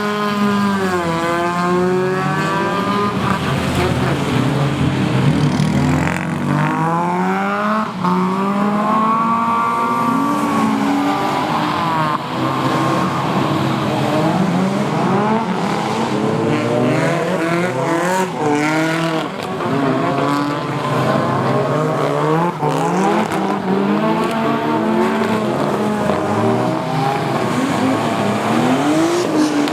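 Drift cars' engines revving up and dropping again and again, at times several cars at once, over a steady hiss of noise.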